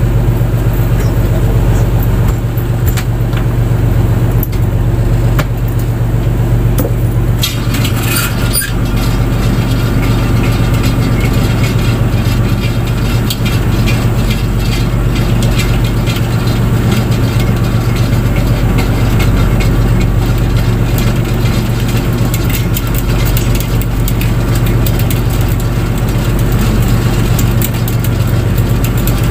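Fishing boat's engine running steadily with a constant low drone, with a short burst of clicks and clatter about eight seconds in.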